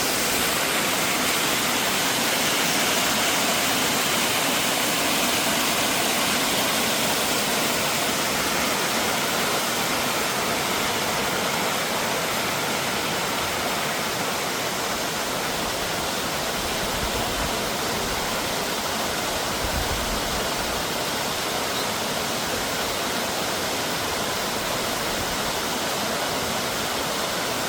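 Mountain stream and waterfall rushing steadily, running high and fast after heavy overnight rain.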